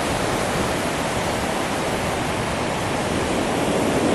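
Ocean surf washing up a beach: a steady rush of waves, swelling a little near the end.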